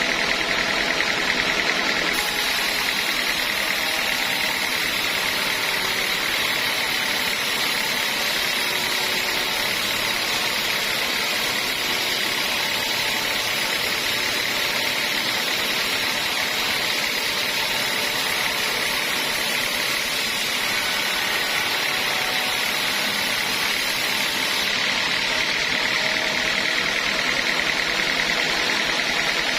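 Sawmill machinery running steadily with a loud constant drone; its character shifts about two seconds in and again near the end.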